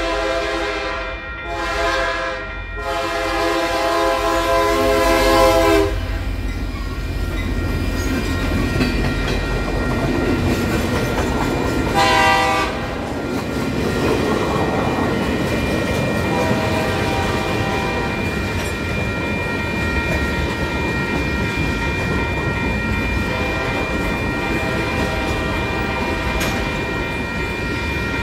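Freight locomotive air horn sounding a long blast broken by two short gaps, its grade-crossing signal, ending about six seconds in; a brief second toot comes about twelve seconds in. Then the rumble and clickety-clack of the freight cars passing over the crossing, with the crossing bell ringing steadily.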